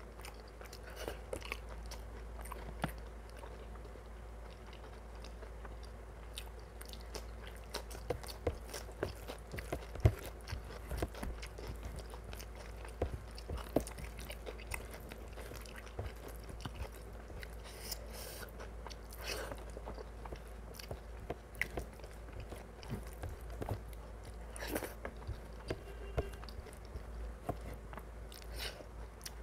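Close-miked chewing and wet mouth sounds of someone eating mutton curry and rice, with scattered small clicks and smacks and an occasional louder one, over a steady low hum.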